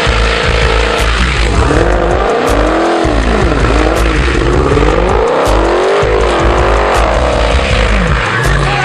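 Music with a heavy bass beat, mixed with a car sound that rises and falls in pitch in repeated waves.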